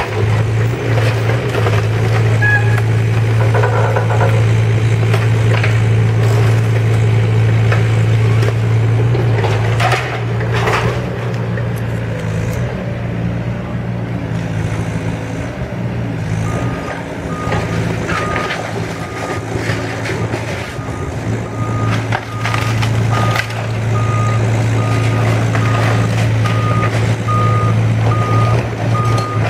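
Diesel engine of heavy demolition equipment running steadily under load, with scattered cracks and crunches of the house's wood structure being broken. From about halfway through, a backup alarm starts beeping steadily, a little under a second between beeps.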